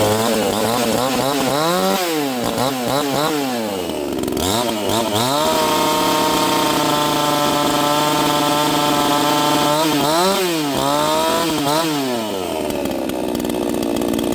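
Neotec 68cc two-stroke chainsaw running freshly started and warm, its throttle blipped so the engine note rises and falls several times, held at high revs for about four seconds midway, then blipped up and down again.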